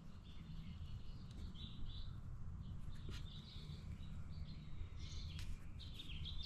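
Small birds chirping in short repeated calls, over a steady low hum.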